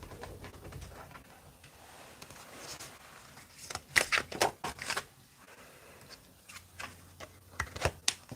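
Tarot cards being handled and shuffled: a quick run of sharp card snaps and clicks about four seconds in, and a few more near the end.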